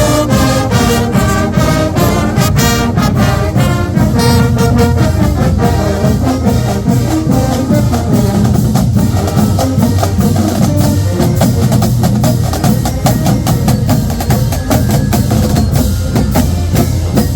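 Marching band playing: brass horns over a steady drumbeat.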